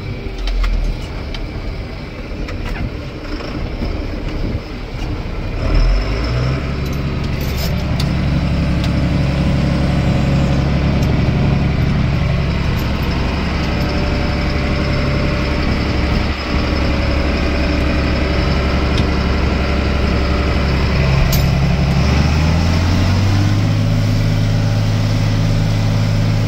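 Tractor engine running, uneven at first, then throttled up about six seconds in to a steady, higher speed, and up again to a higher pitch near the end.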